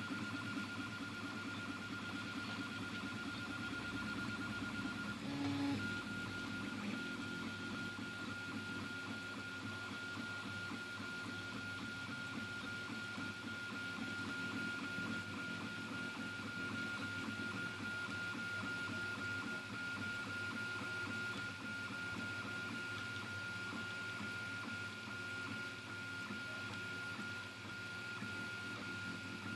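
Anet A8 3D printer's stepper motors driving the print head while printing in PLA: a steady high whine over fast, even stepping, with a brief change in the motion about five seconds in.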